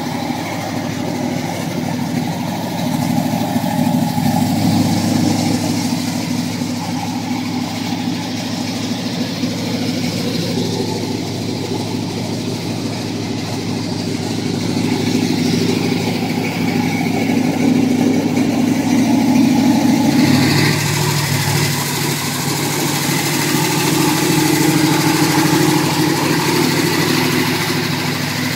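Chevrolet 396 big-block V8 idling through headers and dual Flowmaster exhaust, a steady low engine sound that swells and eases gently, changing tone about twenty seconds in.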